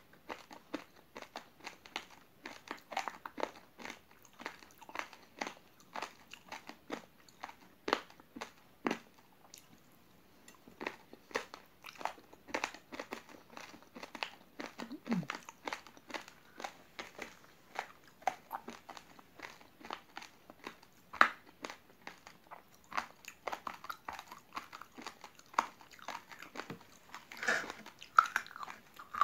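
Close-up chewing of raw, uncooked rice grains stuck on chewy jelly cubes: a dense, irregular run of sharp crunches as the hard grains break between the teeth, with a louder bite near the end.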